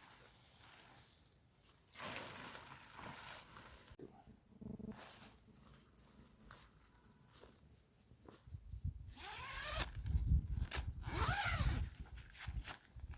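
An insect chirping in a steady high pulse, about six chirps a second. Near the end it is overlaid by louder rustling and knocks from handling close to the microphone.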